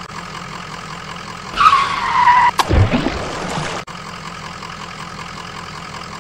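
A steady vehicle engine sound, with a tyre-skid squeal about one and a half seconds in that falls slightly in pitch. A sharp knock with a low boom follows about a second later.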